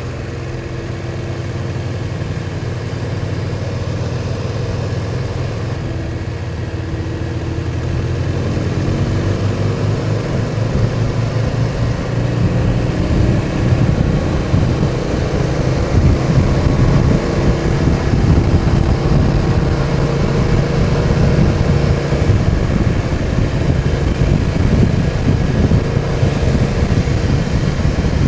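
BMW R1200 boxer-twin motorcycle engine running steadily, then getting louder about eight seconds in as the bike picks up speed, with wind rushing over the helmet microphone.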